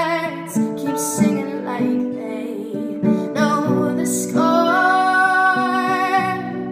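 A woman singing a slow ballad over acoustic guitar. She holds a long, wavering note about two-thirds of the way in.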